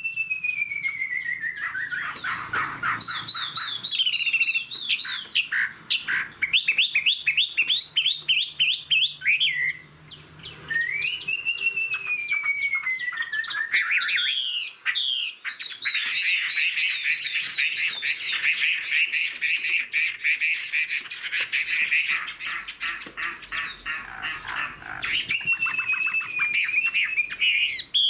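Chinese hwamei singing a loud, varied song: long falling whistles, quick repeated notes, and a long fast run of notes through the middle, with more whistled phrases near the end.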